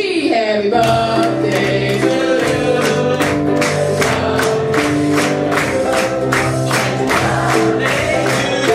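Live band music with several voices singing over sustained chords, and percussion hits keeping a steady beat of about three a second.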